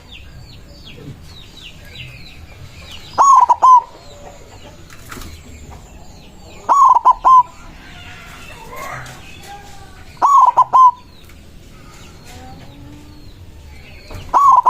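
White zebra dove (perkutut) cooing: a loud short phrase of several quick notes, repeated about every three and a half seconds, with another phrase starting near the end.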